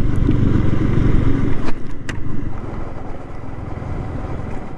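Yamaha R15 V3's single-cylinder engine running under way, easing off a little about two seconds in, with two sharp clicks around the middle.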